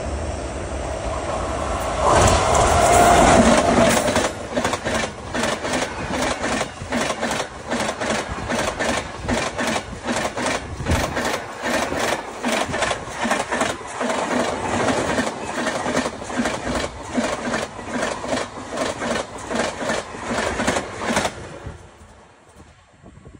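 Passenger train passing close by at speed. The horn and the locomotive are loudest about two to four seconds in. Then comes a long, regular clickety-clack of coach wheels over the rail joints, about three clicks a second, which fades away quickly near the end as the last coach passes.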